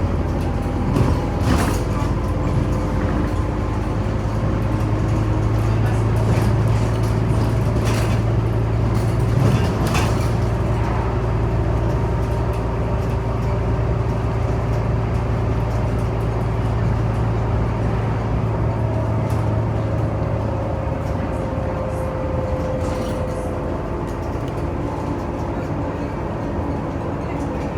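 Interior noise of a Scania Omnicity city bus under way: a steady low engine drone, with a few sharp knocks and rattles early on the ride. The drone fades about two-thirds of the way through.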